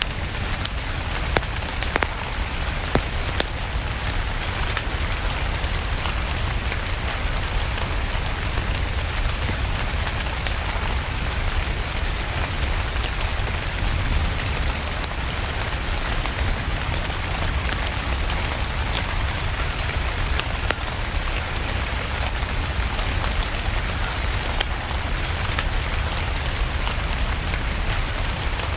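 Steady rain falling, mixed with a low rumble and scattered sharp crackles of a wood fire.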